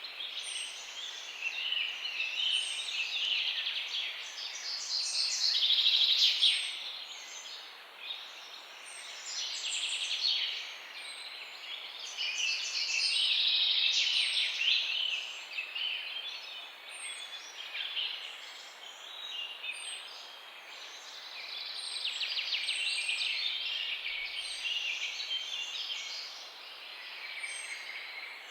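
Several songbirds chirping and trilling together, the chorus swelling and fading in waves, with one short high note repeated every second or two above the rest.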